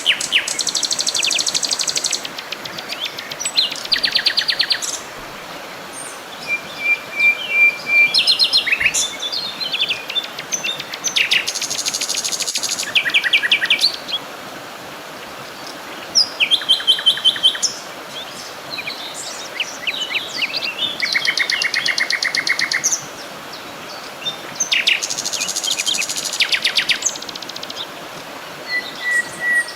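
Songbirds singing in phrase after phrase of fast trills and rapid high chirps, with a few short steady whistled notes, over a faint steady hiss.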